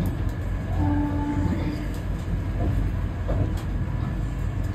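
Vande Bharat Express electric multiple-unit train running, a steady low rumble. A short steady tone sounds about a second in.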